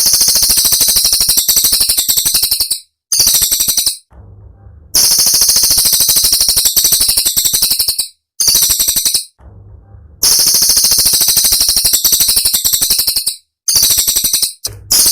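Cililin songbird singing loud, shrill, very rapid runs of notes in sharp bursts. The bursts come in phrases of one to three seconds, broken by brief pauses.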